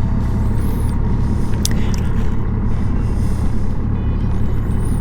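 Honda Gold Wing's flat-six engine running steadily under way, with road and wind noise on the rider's microphone. A brief high squeak cuts in a little under two seconds in.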